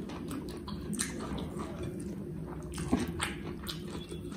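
Close-up eating sounds: wet chewing and mouth smacks, with the squish of fingers mixing rice and meat curry on the plate, made up of many small irregular clicks over a steady low hum. One sharper click comes about three seconds in.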